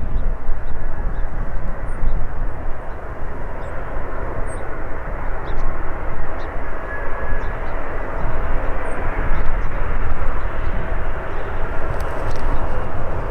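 Arriving Airbus A350-900 airliner's Rolls-Royce Trent XWB jet engines: a steady rushing jet noise with a deep rumble.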